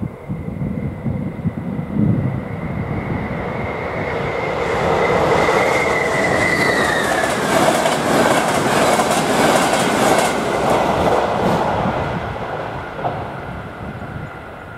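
Passenger train passing over a level crossing at speed: wheels clattering over the rail joints, the sound swelling then fading, with a brief falling squeal about six seconds in. Under it the crossing's AŽD 71 warning bell rings steadily, and wind gusts on the microphone at the start.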